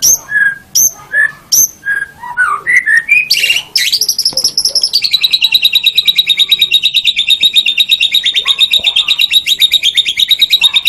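White-rumped shama (murai batu) singing. It gives a string of separate loud, sharp whistled notes, then breaks into a long, very fast and even trill of about ten notes a second.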